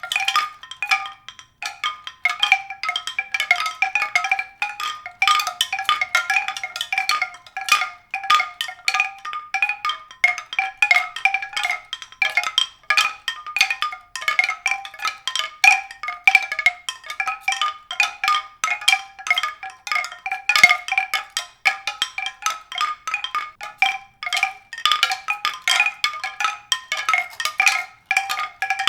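A dense, irregular stream of short pitched strikes at a few recurring notes, in the manner of mallet percussion or chimes, running steadily with no pauses.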